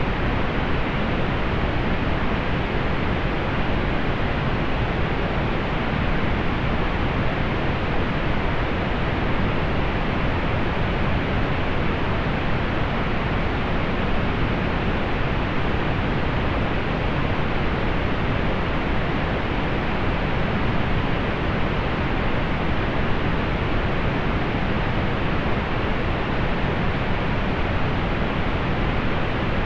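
Steady synthetic pink noise: an even, unchanging hiss weighted toward the low end, softened above the upper mids.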